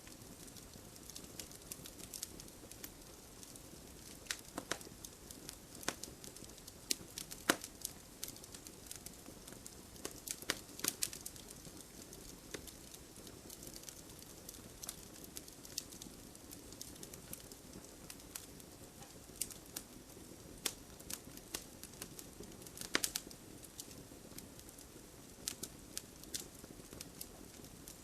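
Wood fire in a fireplace crackling: irregular sharp pops and snaps, a few of them louder, over a soft steady hiss.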